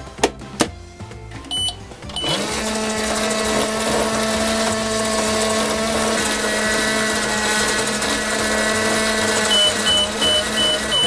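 Toy microwave's electronic sound effect: a couple of clicks and a short beep, then a steady electronic hum that starts with a brief rise in pitch and runs for about seven seconds. Near the end comes a string of quick evenly spaced beeps signalling the cycle is done.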